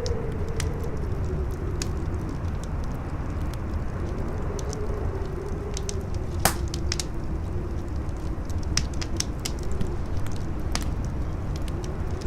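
Campfire crackling, with scattered sharp pops and one louder pop about halfway through, over a low rumble of wind and a howling wind tone that wavers up and down in pitch.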